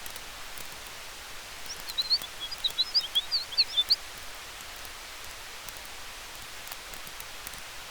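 Campfire crackling with a steady hiss of wind through the trees. About two seconds in comes a quick, high, chattering run of chirps, a small bird twittering for about two seconds.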